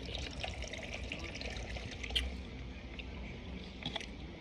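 Canada Dry soda being poured into a cup, a steady trickle of liquid with small crackling ticks throughout.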